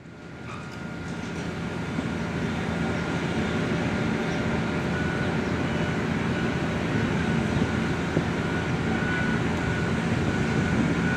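Heavy diesel machinery running steadily, fading in over the first couple of seconds, with short high beeps coming on and off in the second half.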